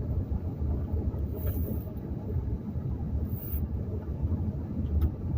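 Car rumbling along a dirt and gravel road, a steady low road and engine rumble heard from inside the cabin, with two brief hisses.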